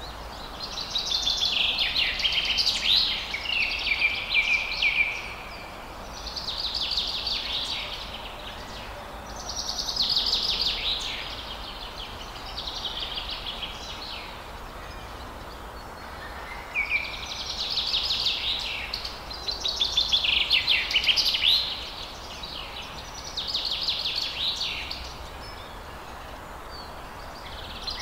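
Songbirds singing: trilled, chirping phrases a second or two long, coming every two to three seconds, over a steady background hiss.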